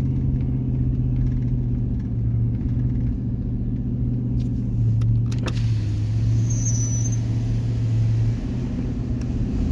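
Car engine running with a steady low drone and road rumble while climbing. There is a single sharp click a little past halfway, and the engine note changes about two thirds of the way in.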